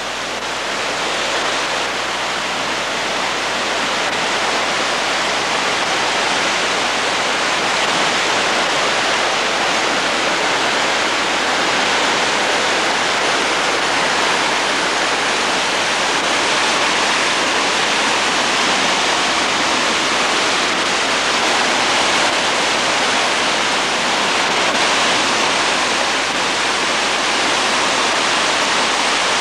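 Flash-flood water rushing down a wadi channel, a steady rush of water that grows a little louder over the first few seconds and then holds.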